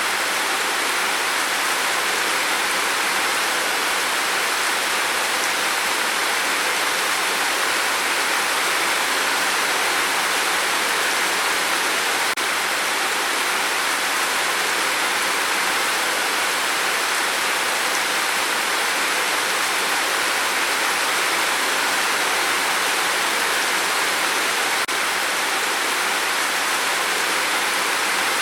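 Steady rain on a tin roof: an even, unbroken hiss in which no single drops stand out, with two faint momentary dips about 12 and 25 seconds in.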